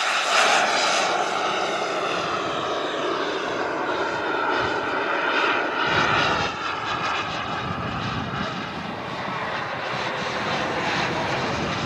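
Turbine engine of a radio-controlled model jet flying, a steady loud jet rush and whine that slowly shifts in pitch as the jet moves across the sky.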